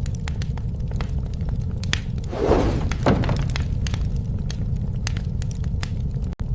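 Campfire burning: wood crackling and popping in sharp snaps over a steady low rumble. About two and a half seconds in there is a denser crunching burst lasting about a second, like burning wood breaking or settling. The sound cuts out for an instant near the end.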